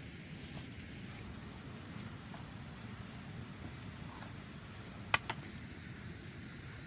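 Outdoor background with a steady low rumble and a faint, steady high-pitched tone, broken about five seconds in by one sharp click and a smaller one just after.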